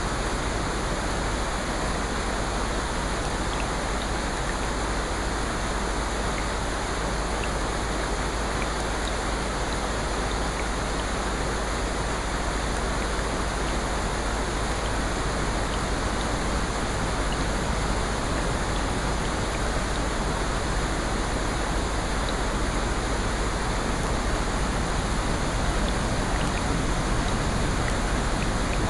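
Steady, even rain noise with faint scattered ticks of drops.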